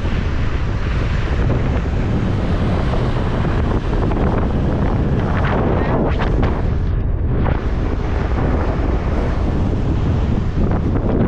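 Loud, steady wind buffeting the microphone of a moving motorcycle.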